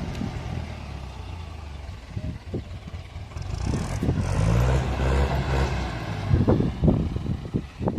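Excavator's diesel engine running under load, growing louder for a couple of seconds midway. A cluster of sharp knocks and clatter comes near the end.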